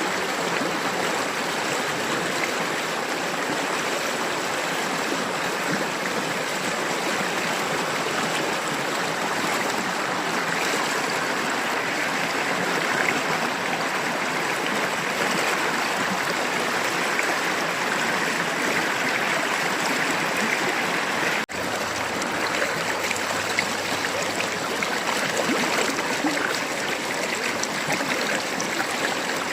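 River water babbling steadily over its bed, an even rush of flowing water. It drops out for an instant about two-thirds of the way through.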